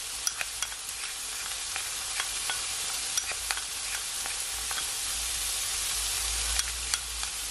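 Mixed vegetables, onion and garlic frying steadily in oil in a pot, with scattered small clicks and pops.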